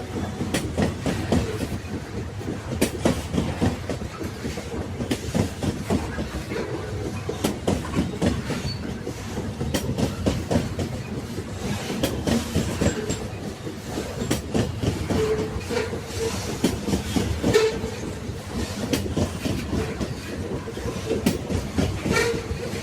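Railway wagons rolling along the track: a steady rumble of the wheels with a running clickety-clack of knocks as they pass over rail joints.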